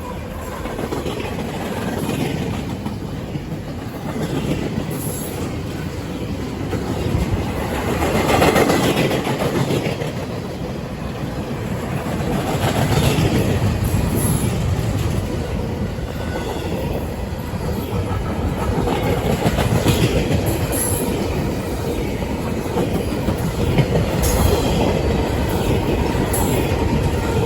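Empty intermodal well cars of a freight train rolling past close by: a steady rumble of wheels on rail with a clickety-clack of wheels over rail joints.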